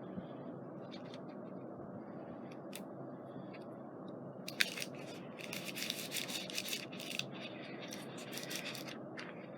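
Paper and washi tape being handled and rubbed down on a scrapbook page: a sharp click about halfway in, then a few seconds of dense scratchy rustling.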